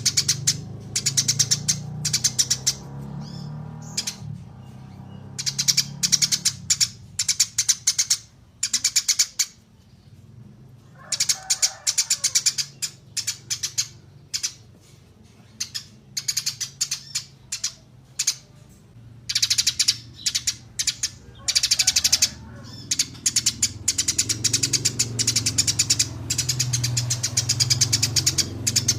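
Small songbirds singing rapid, high-pitched chattering trills in bursts of one to two seconds, repeated with short gaps, over a low steady hum. This is a 'masteran' recording of small birds, used to tutor competition songbirds.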